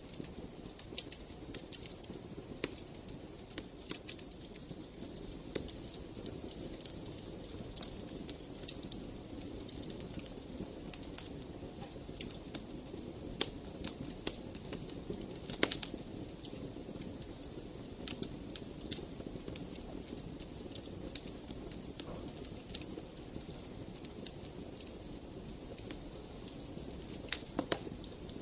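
Wood fire in a fireplace crackling: irregular sharp pops and snaps, several a second at times, over a steady low rush of the flames, with a couple of louder pops near the middle and near the end.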